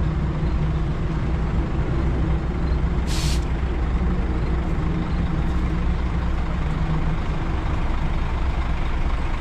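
Heavy diesel bus engine idling steadily, with one short hiss of released compressed air, as from air brakes, about three seconds in.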